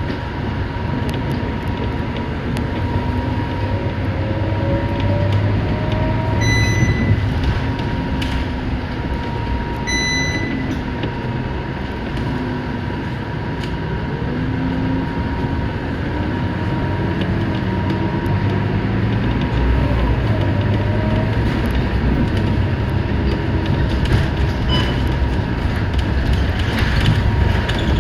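Scania K230UB bus engine and road noise heard from inside the cabin, with the engine pitch rising a few times as the bus gathers speed. Two short electronic beeps sound a few seconds apart.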